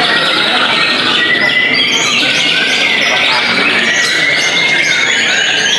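Many caged white-rumped shamas (murai batu) singing at once in a contest, a dense chorus of overlapping whistles, glides and trills.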